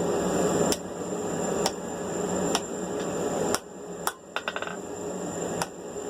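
Blacksmith's hand hammer striking a hot steel tong blank on the anvil, about one blow a second, with a quick run of lighter taps midway. The blank's boss is being worked over the far edge of the anvil's hardy hole.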